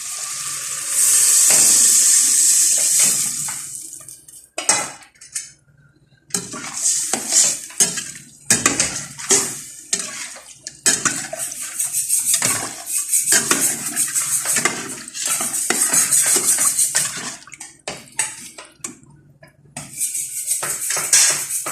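Dishes and cutlery clattering, with water from a tap running in spells, as at a kitchen sink. The water runs loudest about a second in.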